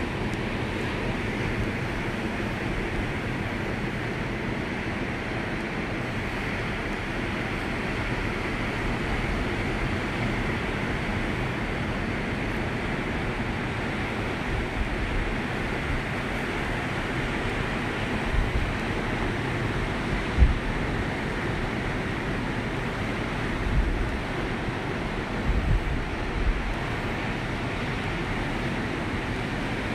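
Ocean surf washing steadily onto a beach, with a few short low buffets of wind on the microphone in the second half.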